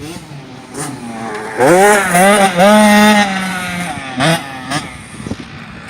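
Small dirt bike engine revving up hard as the rider gets on the throttle, holding a high pitch for about a second and a half, then dropping away, with a short blip of throttle just after.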